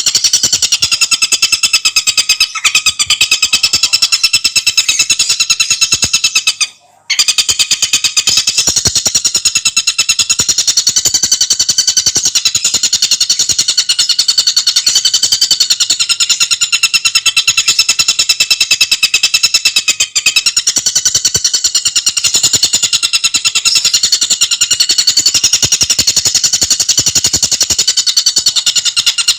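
Tengkek buto bird's call as a fast, dense, unbroken trill of sharp high notes. It stops briefly about seven seconds in, then resumes.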